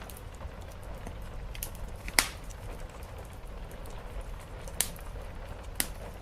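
Wood fire crackling, with a few sharp pops (the loudest about two seconds in), over a steady low rush of rain.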